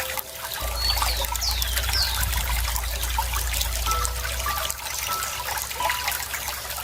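Running water trickling and splashing steadily, with a few quick down-sweeping bird chirps about a second in. A steady low hum sits underneath for most of the stretch.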